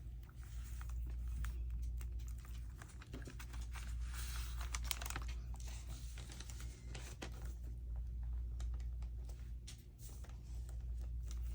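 Paper sheets being handled and rustled, with scattered small taps and scrapes while a page hinge is glued in place, over a steady low hum.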